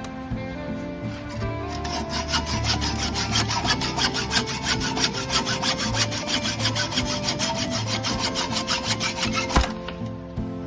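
Rapid, even rasping strokes on an aluminium workpiece, about five a second, that start about two seconds in and stop abruptly near the end, over background music.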